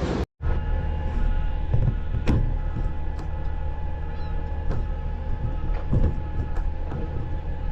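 Garbage truck engine running steadily with a low hum, with a few sharp metallic clanks and knocks, the clearest about two, five and six seconds in.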